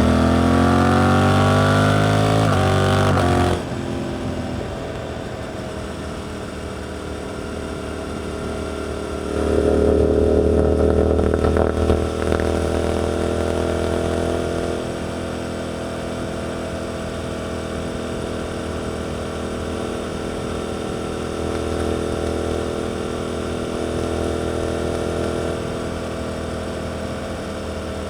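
Suzuki GSX-8S 776 cc parallel-twin through an Arrow aftermarket exhaust. Revs climb under acceleration, then drop suddenly as the throttle closes about three and a half seconds in. It runs steadier after that, with a second, shorter pull from about nine to twelve seconds in before settling back.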